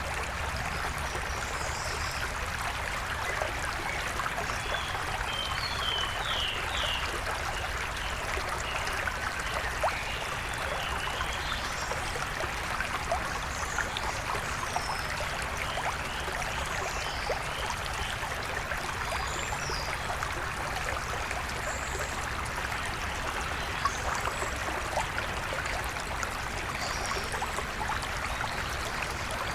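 Shallow river flowing steadily over rocks, with small birds chirping now and then above the water.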